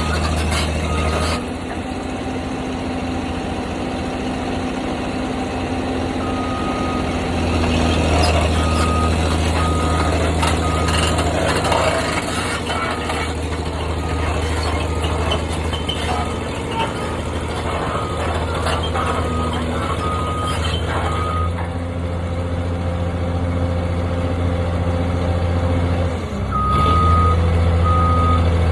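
Heavy construction machine's engine running steadily while its reversing alarm beeps in runs of evenly spaced beeps, signalling that it is backing up. Near the end the engine briefly dips and then comes back louder.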